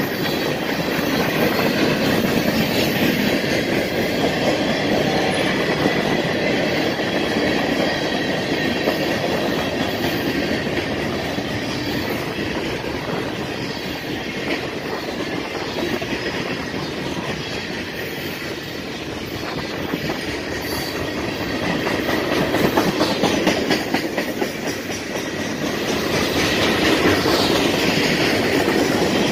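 Freight cars of a mixed freight train rolling past close by: a steady rumble and dense clatter of steel wheels on the rails, with a thin steady squeal riding over it. The clatter grows louder again over the last several seconds.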